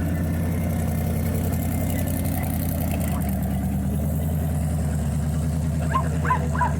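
Car engine idling steadily with a low, even rumble. Near the end, a dog barks in a quick run of short, high yelps.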